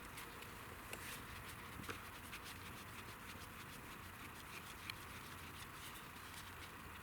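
Wood campfire crackling faintly, with occasional sharp pops over a steady low hiss; the clearest pop comes about five seconds in.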